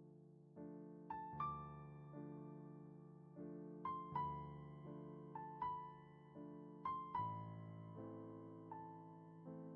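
Slow, gentle solo piano music: soft held chords with single high melody notes struck about once a second, each ringing out and fading.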